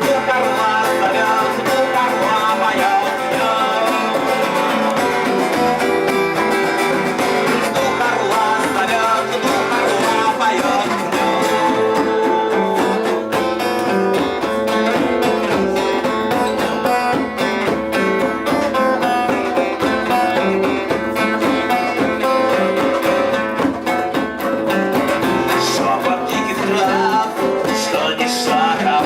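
Guitar-led music playing an instrumental passage with no vocals.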